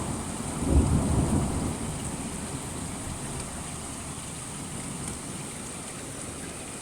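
Thunderstorm: steady rain falling, with a clap of thunder that swells sharply just under a second in and rumbles away over the next second or two.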